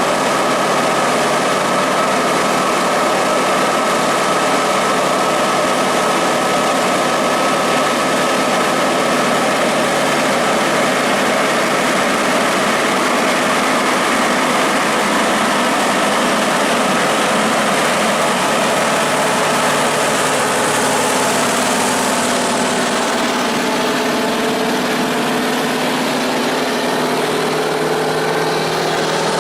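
Truck engine running steadily, its note changing toward the end.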